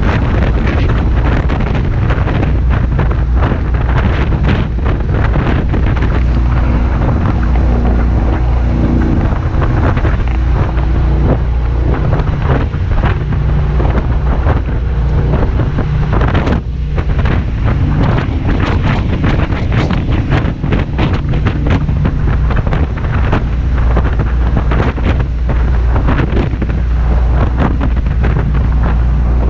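Jet boat running at speed with a steady engine drone, under heavy wind buffeting on the microphone.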